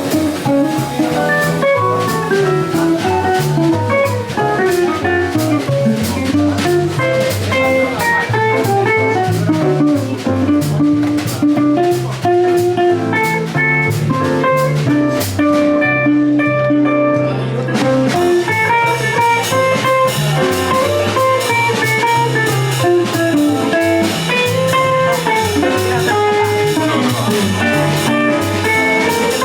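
Jazz combo playing live, a plucked guitar-like melody line over bass and drum kit. The cymbals drop out for about a second a little past halfway.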